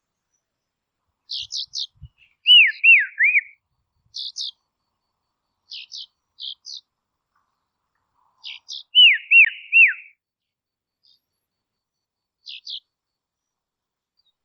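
A songbird singing: scattered clusters of short, high chip notes, and twice, about six seconds apart, a louder phrase of three down-slurred whistles.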